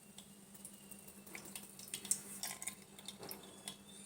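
Ground rice batter trickling faintly through a metal strainer into a vessel, with a few light taps of the strainer against the vessel.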